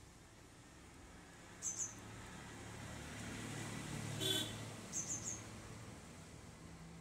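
Small bird chirping: a quick pair of high chirps, a louder call just past halfway, then three quick high chirps soon after, over a faint low hum.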